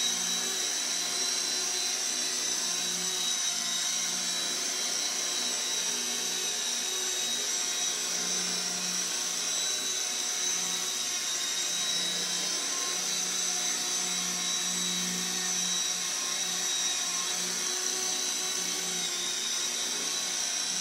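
CB180Q micro RC helicopter in flight: a steady high-pitched electric motor and gear whine over a lower rotor hum that swells and fades a little.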